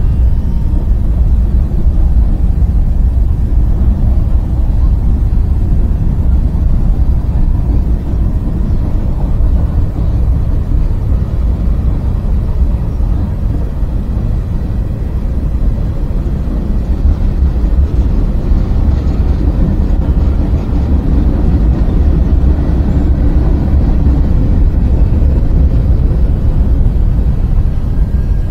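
Freight train passing with a loud, steady rumble.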